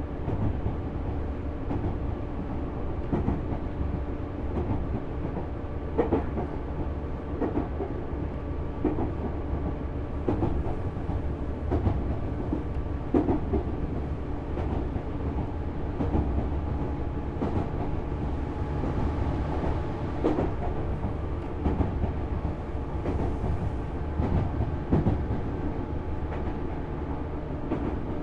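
Running sound inside a Tobu 6050 series motor car: a steady rumble of the wheels on the rails with a steady hum over it. Wheel clacks over rail joints come every few seconds.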